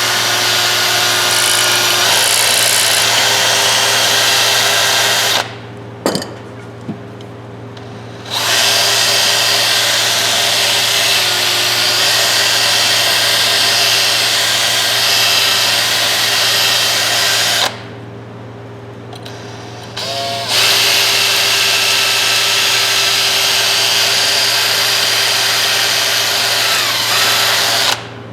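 Small power tool spinning a wire wheel against a steel adjustable wrench, with a steady motor tone and a hissing scrub. It stops twice for a few seconds and then starts again, and cuts off near the end.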